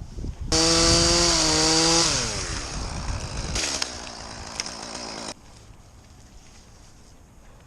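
Chainsaw starts up suddenly at full throttle and holds a steady high engine note, then its pitch falls after a couple of seconds; the sound cuts off abruptly about five seconds in.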